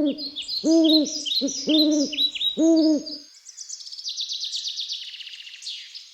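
Birdsong: four low hooting calls in a row over high chirping songbirds, then a fast high-pitched trill that fades away near the end.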